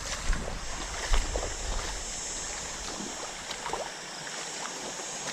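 Floodwater flowing in a wadi: a steady rushing hiss, with low rumble and a couple of knocks in the first second or so.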